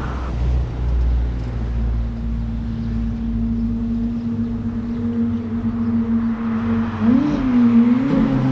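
Ferrari F430's 4.3-litre V8 running at a steady engine speed, its low rumble easing off over the first few seconds. The pitch wavers up and back down twice near the end as the revs are nudged.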